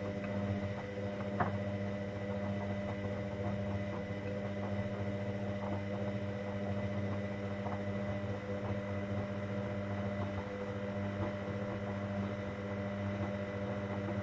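Hoover Dynamic Next washing machine running with a steady electrical hum and a few faint ticks.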